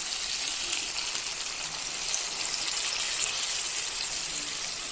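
A cup of water poured into a hot pan of frying chicken and onions, giving a steady hiss.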